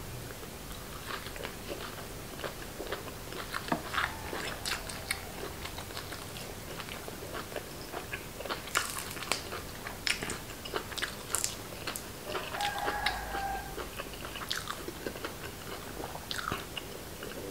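A person chewing and biting food close to the microphone: irregular crisp crunches and wet mouth clicks from eating raw beef with fresh vegetables.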